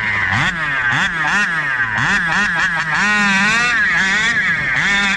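SCZ E290 29cc reed-valve two-stroke engine revving up and down again and again in quick throttle blips, its pitch rising and falling about once or twice a second.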